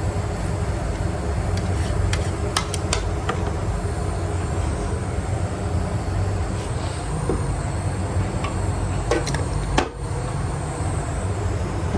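Steady mechanical hum and noise from machinery running without change, with a few sharp clicks, a cluster about two and a half seconds in and one near the end.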